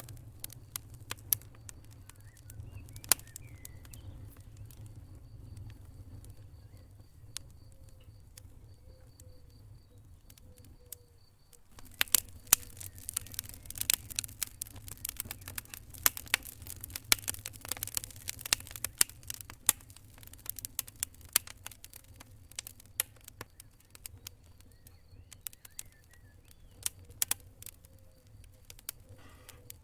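Wood fire crackling and popping over a low steady rumble, the pops coming thick and loud for several seconds from about twelve seconds in, then thinning out again.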